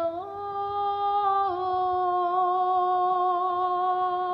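A woman's voice toning one long sung note. The pitch steps up just after the start, dips a little about a second and a half in, then holds level.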